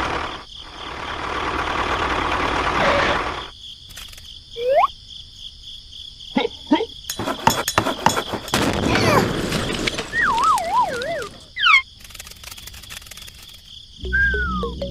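A string of cartoon sound effects: a rushing hiss for the first few seconds, then clicks and sliding whistle tones, one wobbling downward in pitch. Music starts near the end.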